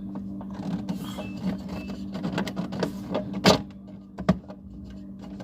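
Plastic clicking and knocking as a new refrigerator water filter cartridge is pushed into its housing and twisted into place, with two sharp clicks a little over halfway through. A steady low hum runs underneath.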